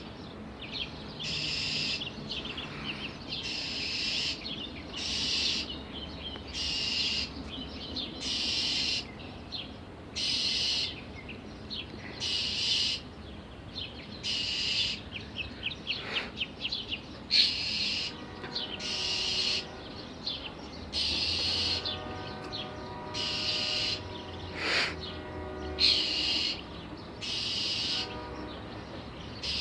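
A bird giving harsh scolding alarm calls over and over, each about half a second long, roughly one every second and a half: a bird agitated and defending its spot against a cat. About two-thirds of the way in, a faint steady droning tone joins in the background.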